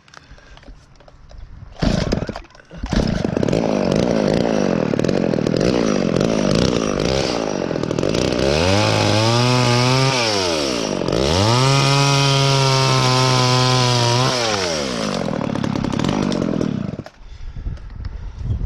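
Two-stroke chainsaw running while cutting branches up in a tree. About a second in there is a short blip, then it runs steadily. Midway it is twice opened up to a high, steady full-throttle pitch, dipping briefly between, and near the end it drops away.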